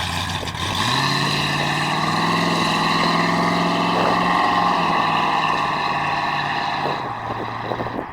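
A 1967 Chevrolet Nova's 350 cubic inch V8 picks up speed about a second in, holds a steady higher engine speed for several seconds, then settles back down near the end.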